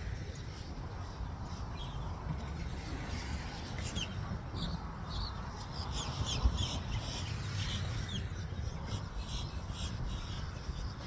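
Birds calling in a quick series of short, high chirps for several seconds, over a steady low rumble.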